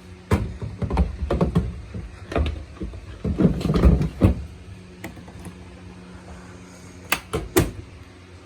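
Condenser unit of a Bosch condenser tumble dryer being handled and pushed back into its housing: a run of plastic knocks and clunks, then two sharp clicks about half a second apart near the end as it latches.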